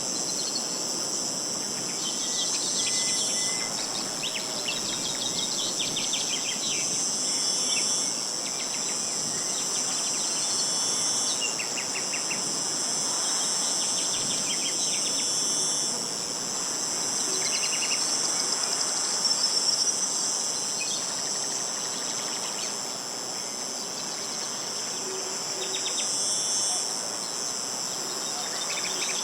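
A steady, high-pitched insect chorus, crickets or cicadas, with small birds singing short trilled phrases on and off over it.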